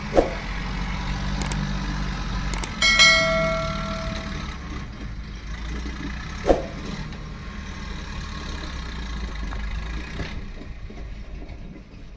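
Tractor diesel engine idling with a steady low rumble that drops away about ten seconds in. A metallic clang about three seconds in rings on briefly, and two short sharp sounds come near the start and about six and a half seconds in.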